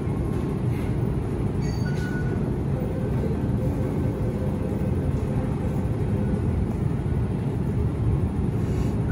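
MTR M-train electric multiple unit moving slowly in a rail depot, heard as a steady low rumble.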